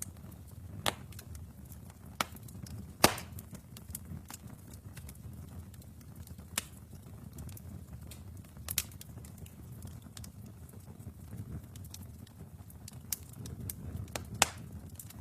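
Wood fire crackling in a fireplace: a low steady rumble of flames with sharp, irregular pops and snaps, the loudest about three seconds in.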